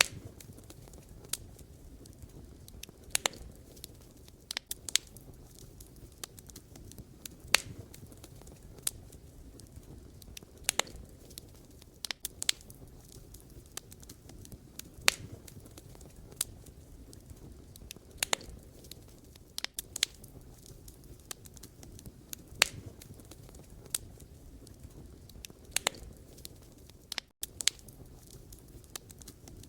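Wood campfire burning, the logs crackling and popping in sharp, irregular snaps over a steady low hiss and rumble of the flames. A split-second dropout breaks the sound near the end.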